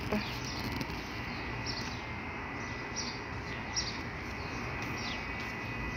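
A few short, high bird chirps, about four of them spaced a second or so apart, over a steady background hiss.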